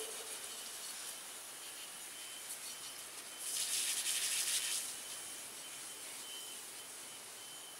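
Faint steady hiss, with a louder hissing burst of about a second and a half near the middle.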